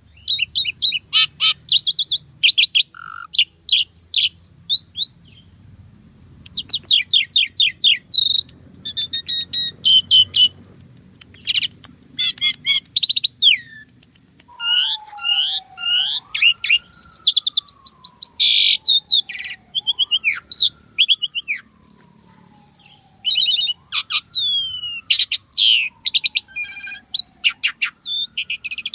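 Asian pied starling (jalak suren) singing vigorously: a dense run of rapid, varied chattering and whistled phrases. From about halfway through, a long falling whistle repeats about every three and a half seconds beneath the chatter.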